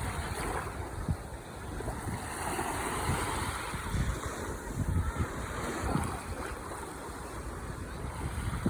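Ocean waves washing on the shore in a continuous surf noise, one wash swelling up a couple of seconds in. Wind buffets the microphone with an irregular low rumble.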